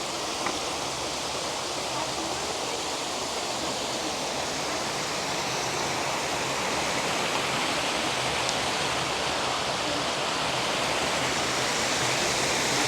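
Steady rush of creek water falling over rocks, slowly growing louder.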